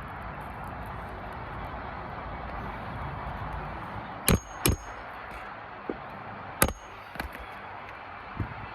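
Hammer driving roofing nails into an asphalt shingle: sharp metallic strikes with a brief ring, two close together about halfway through, then a louder one and a few lighter taps, over a steady hiss.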